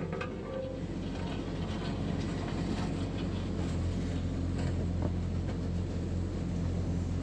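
JCB 3DX backhoe loader's diesel engine running steadily under work, a low even drone, with a few faint knocks on top.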